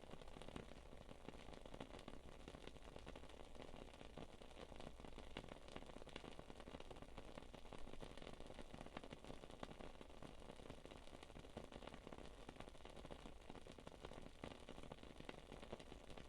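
Wood-wick candle crackling faintly: a soft steady hiss dotted with many small, irregular ticks and pops.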